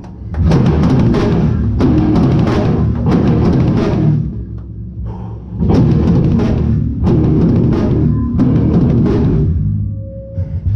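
Hardcore band playing live, heard from right at the drum kit, so the drums are loudest. The band breaks off briefly twice, about four seconds in and near the end, then crashes back in.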